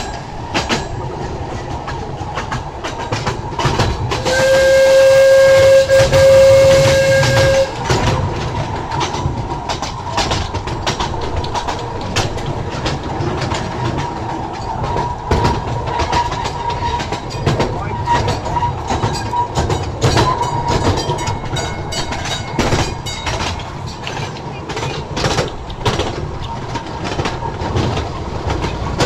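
Small ride-on train running along its track, with steady rumble and a constant rapid clatter of wheels over the rails. About four seconds in comes one loud, steady toot, held for about three and a half seconds.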